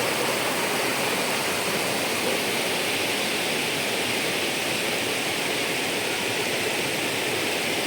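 Steady rush of flowing water, an even hiss-like roar that does not change.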